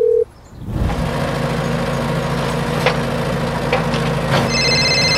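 A phone dial tone cuts off just after the start. After a short gap, an excavator engine runs steadily at idle, with a few light clicks. Near the end a high electronic ringing tone starts over it.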